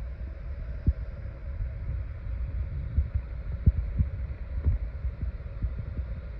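Wind buffeting the microphone: a steady low rumble broken by irregular soft thumps.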